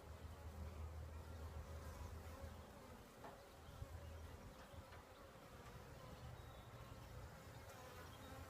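Honeybees buzzing faintly around an opened hive, a steady drone that eases a little after the first couple of seconds.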